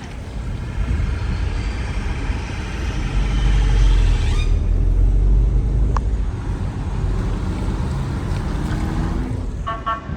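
A heavy emergency vehicle passing close, its engine rumble swelling to a peak about four seconds in and then easing off. A short, pitched horn-like tone sounds near the end.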